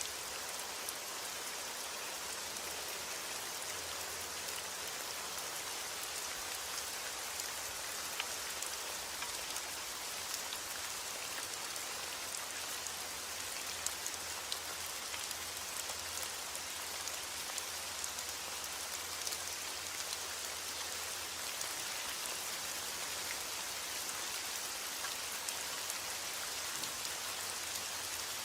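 Steady heavy rain falling, an even hiss of many drops with scattered sharper drop ticks.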